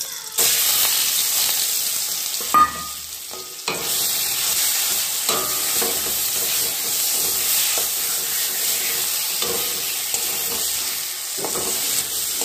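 Ground cauliflower- and kohlrabi-leaf paste frying in hot mustard oil in a black kadai: a steady sizzle, with a spatula stirring and scraping the paste against the pan and a sharp knock about two and a half seconds in.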